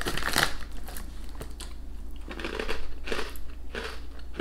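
Crinkly snack bag rustling as a hand reaches in, then crunchy chewing of onion bhaji half-moon crisps: a run of irregular crunches from about halfway in.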